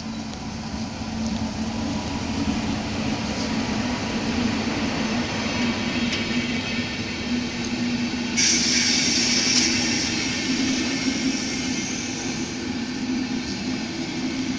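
Siemens Eurorunner ER 20 diesel-electric locomotive hauling a passenger train past at close range: a steady diesel drone under the rumble of the coaches rolling by. About eight seconds in a loud, sharp hiss joins as the coaches pass close.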